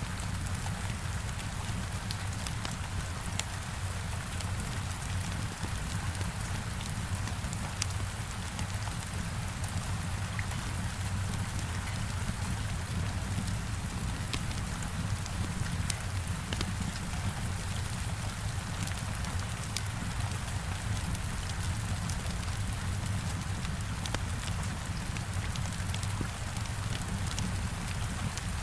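Heavy rain hitting a window, an even steady hiss with a low rumble beneath it. Scattered sharp crackles from a wood fire in a fireplace are heard throughout.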